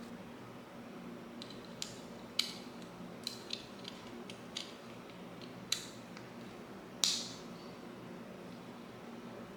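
Scattered sharp clicks and light metallic clinks of small tools or parts being handled, over a steady low hum. The loudest click comes about seven seconds in and rings briefly.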